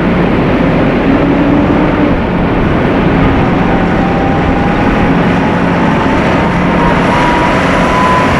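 Volvo semi-truck driving by with steady engine and road noise, and a thin whine that rises slowly in pitch over the second half.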